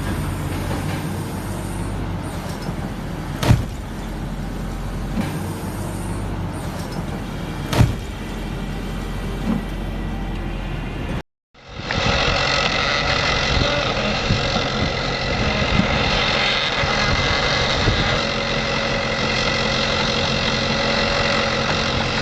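Heavy machinery engine running steadily, with two sharp knocks in the first half. The sound drops out briefly about halfway, then another machine's engine runs steadily with a constant whine.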